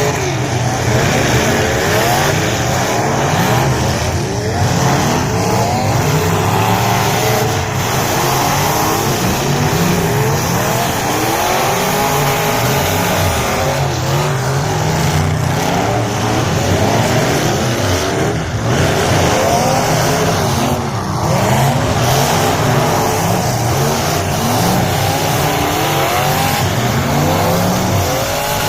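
Several figure 8 race cars running on the track together. Their engines rise and fall in pitch over and over as they accelerate and lift, many overlapping at once.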